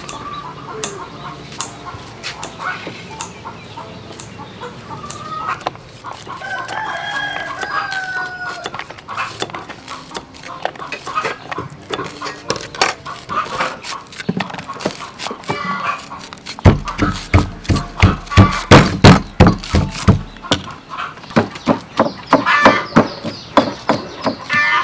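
Chickens clucking around a rooster that crows once, about seven seconds in, with scattered sharp clicks. Partway through, a run of heavy, regular knocks, about three a second, lasting about four seconds, is the loudest sound.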